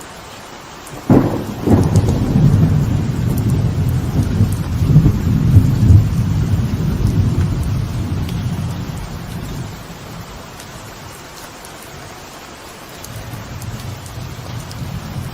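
Steady rain with a close thunderclap: a sharp crack about a second in, then a long low rumble that dies away over several seconds, and a fainter rumble building near the end.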